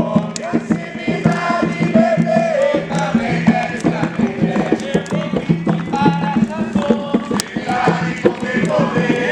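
A group of voices singing a chant together over music with a quick, steady beat, typical of a devotional song at an Umbanda or Candomblé ceremony.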